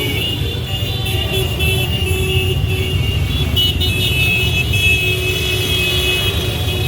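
Many motorcycle engines running steadily as a parade of bikes rides past, a low rumble. Some steady high tones sound above the engines.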